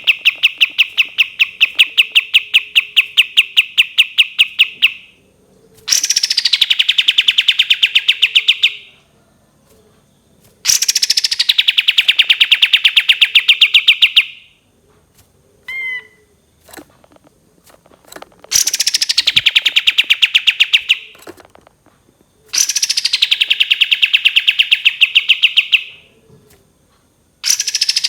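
Kapas tembak, a bulbul, singing its long 'tembakan' trills: loud runs of rapid, sharp notes, each lasting three to four seconds. Each run starts higher and settles lower, and they repeat five times with short pauses. A short thin call falls about halfway through.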